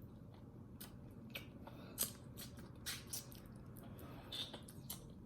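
Faint close-up eating sounds of a person chewing: a scattering of short wet clicks and smacks, several a second apart.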